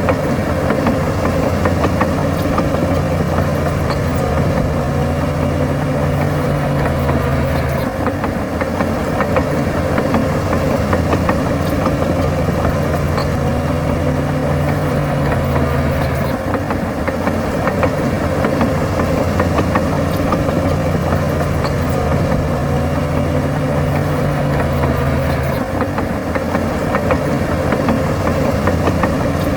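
Heavy diesel engine of earthmoving machinery running steadily, with a higher engine note that comes and goes about every eight seconds.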